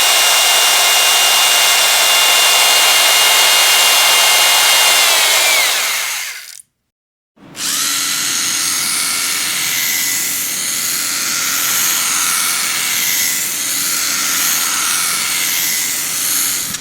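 Power drill running at full speed, then its motor winding down with a falling whine about six seconds in. After a second's pause it starts again and runs with a wavering pitch until it cuts off near the end.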